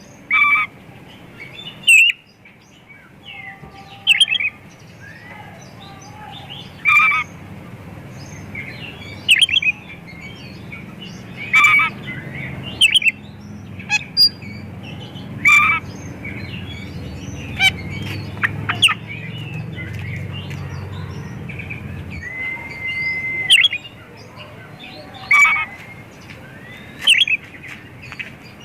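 Oriental magpie-robin singing loud, short, sharp phrases about every two seconds, with a long steady whistle near the end, over a faint low hum.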